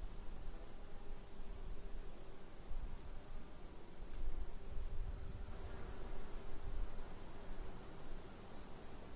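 Night insects, crickets: one holds a continuous very high trill while others give short chirps several times a second, a little lower in pitch. A low rumble runs underneath.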